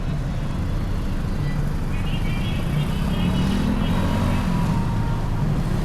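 Motorcycle engine running under way, with road and wind rumble on the microphone; the engine note rises slightly about three seconds in.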